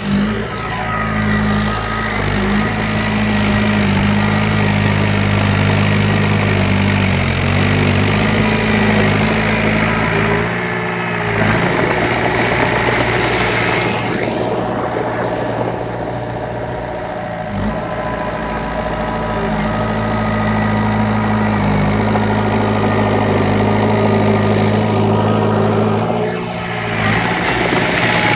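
Diesel engine of heavy earthmoving equipment running steadily under load, its note breaking and shifting briefly about eleven seconds in and again near the end.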